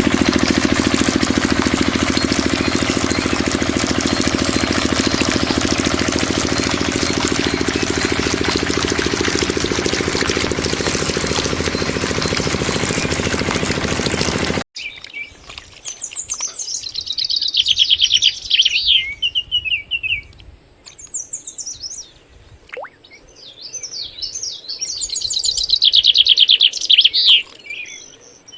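Small diesel engine driving a water pump runs steadily with a fast, even clatter, then cuts off abruptly about halfway through. After that, birds chirp in quick, repeated high trills.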